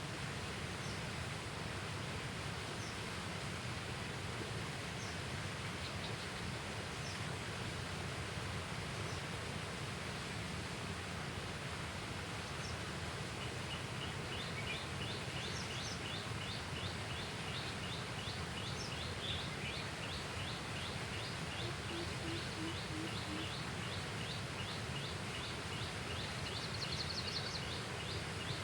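Steady outdoor background hiss with scattered high bird chirps. About halfway through, a bird starts a fast series of short, high repeated chirps, roughly two or three a second, which keeps going to the end.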